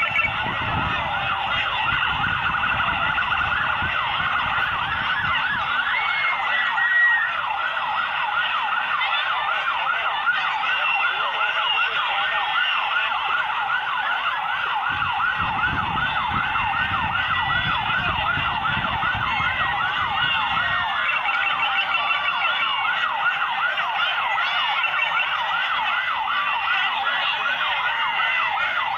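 Several vehicle sirens sounding together in a rapid, wavering yelp, overlapping without a break. A low rumble of passing vehicles joins in near the start and again around the middle.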